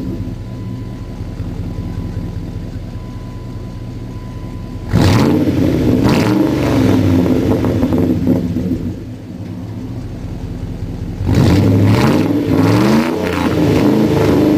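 1998 Dodge Ram 1500's engine through a cat-deleted exhaust with a Dynomax single-in, dual-out muffler, warm and idling steadily. About five seconds in it is revved sharply and falls back to idle over a few seconds. Past eleven seconds it is revved again in rising blips that hold up to the end.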